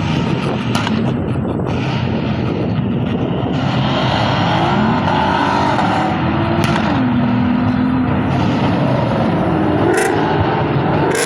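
Car engines running and revving at a steady loud level, with the engine pitch rising and falling several times, and a few short sharp clicks.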